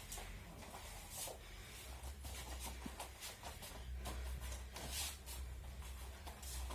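Aikido training in a small hall: bare feet shuffling on the mats and practice uniforms rustling, in short irregular bursts, over a low steady hum.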